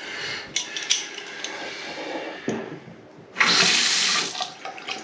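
Bathroom faucet opened about three and a half seconds in, water rushing loudly into the sink and easing off after about a second, with a few light clicks of handling before it. The faucet is being tested after its cartridge was replaced.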